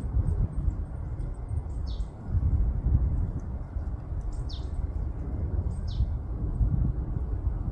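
Wind buffeting the microphone in an uneven low rumble, over which a small bird gives three short high calls, each falling in pitch, about two, four and a half and six seconds in, with fainter high chirps between.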